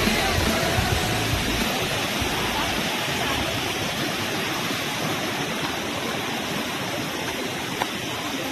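Steady rushing water, with the tail of music fading out in the first couple of seconds.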